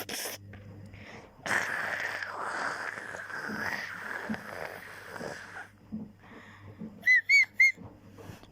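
A person's voice making a long, breathy, wheezing rasp for about four seconds, then three short, high whistled squeaks in quick succession near the end.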